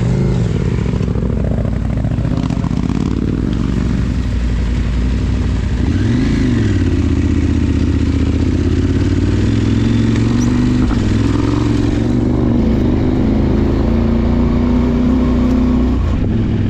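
Adventure motorcycle's parallel-twin engine running steadily under way, its revs rising and falling briefly at the start and again about six seconds in.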